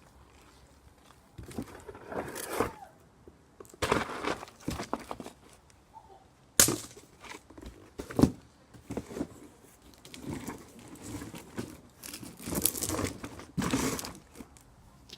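Cardboard box being hit and crushed with a vacuum cleaner pole: irregular crumpling and tearing, with two sharp hits about six and a half and eight seconds in.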